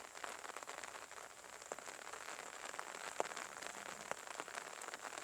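Light rain falling: a fine, steady patter of drops with a few louder single drops ticking now and then.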